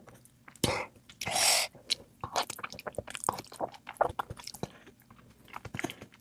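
A person eating a meal of curry and biryani, chewing with many short irregular clicks and smacks. Two brief louder noisy spells come about a second in.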